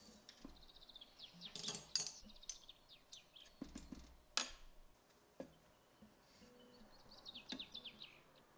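A bird chirping faintly in the background: two runs of quick, falling chirps, one early and one near the end. A few light clicks and knocks sound between them.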